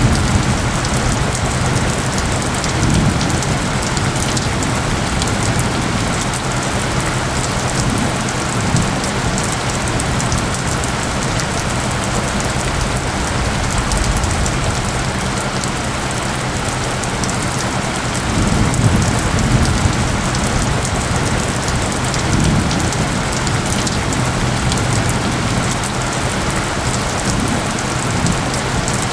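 Steady, heavy rain with a low hum of steady tones layered underneath, as in an ambient rain soundscape with isochronic tones. A few low rumbles swell up briefly, once early on and again about two-thirds of the way through.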